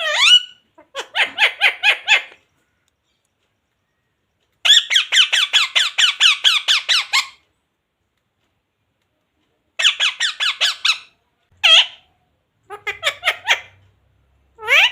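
Pet parrot calling in bursts of rapid, repeated shrill notes, about six a second, with short pauses between bursts; a rising call opens and closes the stretch.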